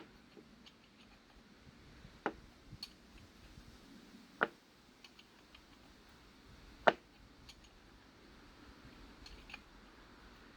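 Hand-tool work on small bolts: a few sharp, separate clicks and knocks about two seconds apart, the loudest about seven seconds in, with fainter ticks near the end.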